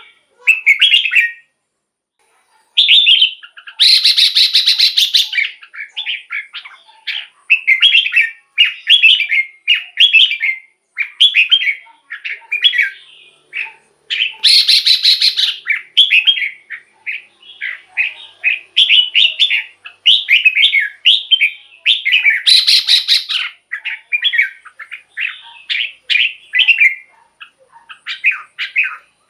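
Red-whiskered bulbul singing a rapid series of short, bright whistled phrases. Three louder, harsh rattling chatters break in: one about four seconds in, one near the middle and one a little over twenty seconds in.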